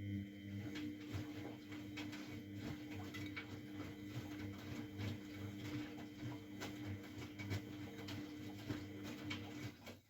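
Miele Novotronic W912 washing machine's drum motor turning the drum for about ten seconds, a steady hum with many small knocks and clicks from the tumbling load, starting and stopping abruptly.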